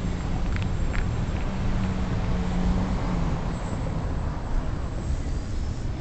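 Strong wind buffeting the microphone, a heavy fluctuating low rumble, with a low steady hum coming through for a second or two in the middle.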